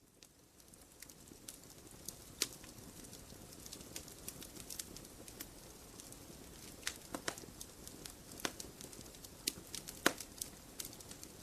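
Campfire burning: a steady low rushing of flames with sharp, irregular crackles and pops of burning wood, fading in over the first second or two.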